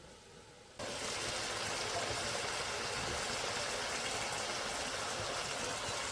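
Stream water rushing in a steady, even hiss that starts abruptly about a second in.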